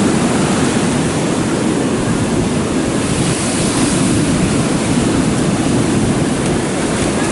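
Stormy sea waves breaking, with wind buffeting the microphone: a loud, steady rush of noise that never lets up.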